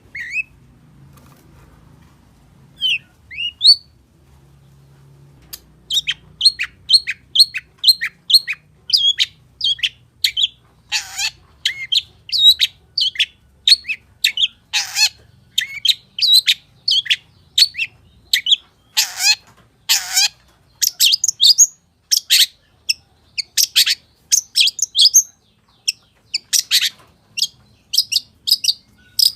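Long-tailed shrike (cendet) singing in full voice, a song packed with mimicked phrases. A few scattered calls come first; then, about six seconds in, a fast, unbroken run of sharp chirping notes begins, several a second, with a few louder, harsher notes among them.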